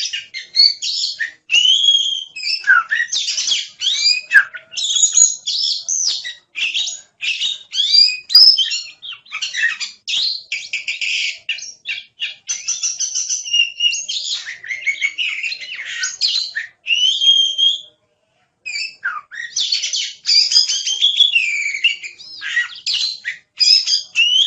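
Oriental magpie-robin (kacer) in full song: a long, varied run of rapid notes and sliding whistles, broken by a brief pause about eighteen seconds in.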